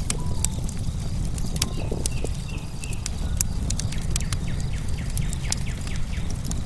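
Log bonfire crackling, with frequent sharp pops over a steady low rumble, and short bird chirps mixed in.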